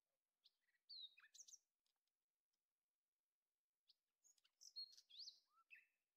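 Faint birdsong: two short bursts of chirps and whistled notes sliding up and down, one about a second in and another about four seconds in.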